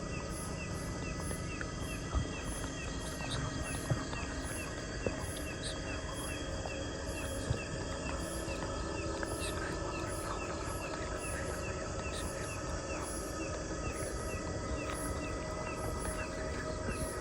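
Night chorus of insects chirping in rapid, evenly repeating pulses, with steady background noise and a few faint knocks.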